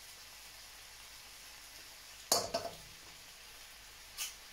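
Diced beef sizzling faintly as it browns in a steel wok, with a metal slotted spatula clanking against the wok about two seconds in and a lighter knock near the end.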